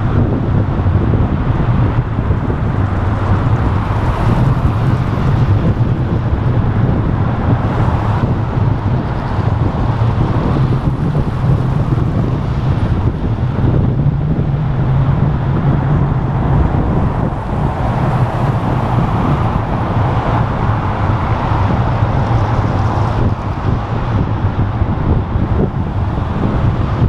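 Wind rushing and buffeting over the camera microphone of a moving bicycle, a steady low rumble, with city road traffic mixed in.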